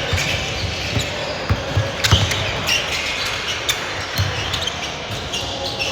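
A basketball bouncing on a gym floor during play: repeated thuds, the loudest about two seconds in. A few short high squeaks come over a steady hum of a large hall.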